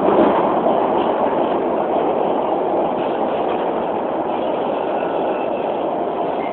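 Beijing Subway Line 4 train running between stations, heard from inside the carriage: a steady, loud rumble of wheels and running gear.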